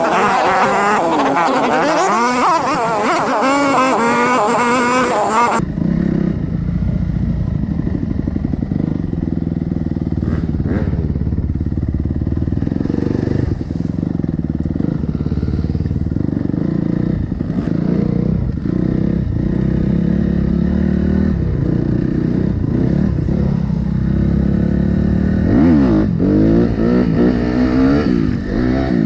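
Enduro motorcycle engine running at low, uneven revs, with a couple of rises in revs near the end. For about the first six seconds there is instead a higher, wavering pitched sound with hiss, which cuts off abruptly.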